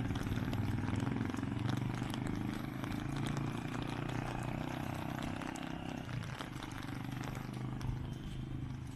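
A motor vehicle's engine running close by with a steady low hum that thins out about six seconds in, over general street noise.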